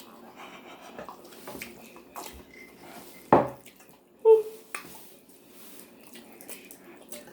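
Close-miked chewing and wet mouth noises of people eating spicy chicken sandwiches, with many small clicks. Two short louder sounds come about three and four seconds in.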